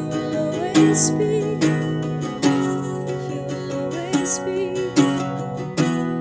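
Acoustic guitar strumming chords at a slow, steady pace, with a strum roughly every second as accompaniment to a worship song.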